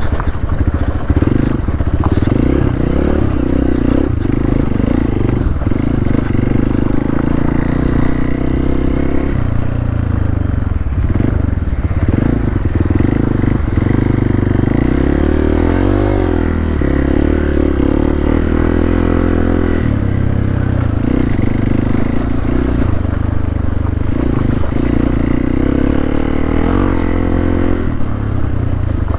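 Hero Xpulse 200 motorcycle engine running continuously under load off-road, its pitch rising and falling with the throttle, notably a dip and climb about halfway through.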